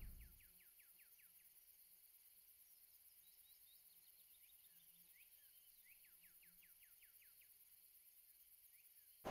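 Faint birdsong over near silence: a bird gives a run of quick falling chirps just after the start and again about six seconds in, with a few single chirps between.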